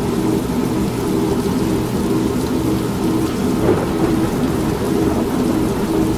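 Steady rain with rumbling thunder, mixed with the continuous drone of an old semi-automatic washing machine running. There is a brief knock a little past halfway.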